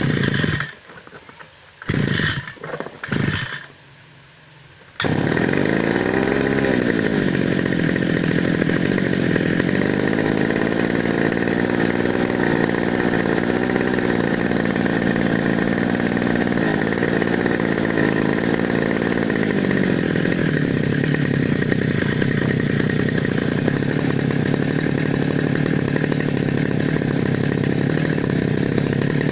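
A brush cutter's small petrol engine is pull-started, with a few short tugs on the recoil starter; about five seconds in it catches and then runs steadily. It starts now that its dirty spark plug has been cleaned and refitted.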